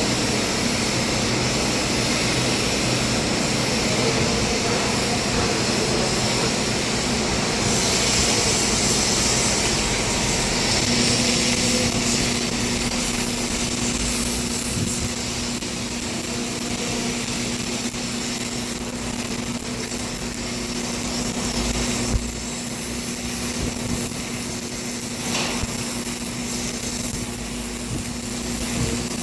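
Electric arc welding on a vertical joint: a continuous hiss and crackle of the arc that swells and eases, over a steady machine hum that sets in about a third of the way through.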